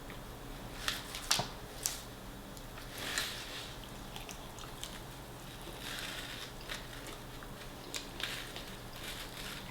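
Close-miked eating of fried chicken: a few sharp, crisp crunches in the first two seconds, then quieter chewing with more crunches near the end.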